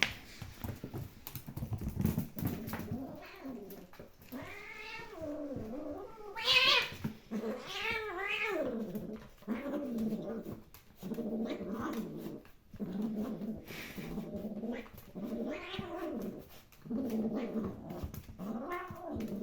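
Domestic cat caterwauling: a string of long, wavering yowls, one every second or two, from a cat squaring up for a fight.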